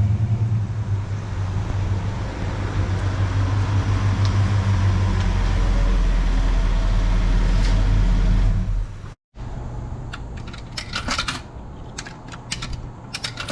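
Chevrolet Suburban engine and road noise heard inside the cab while driving, a steady low drone. It cuts off abruptly about nine seconds in and gives way to a run of sharp metallic clicks and clinks.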